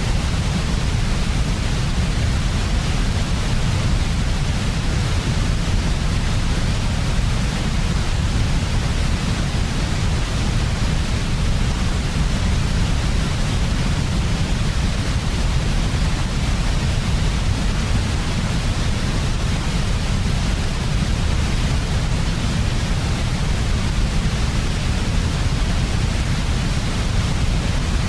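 Steady, unchanging white-noise sleep sound for babies, with its weight in a deep rumble at the bottom and a fainter hiss above.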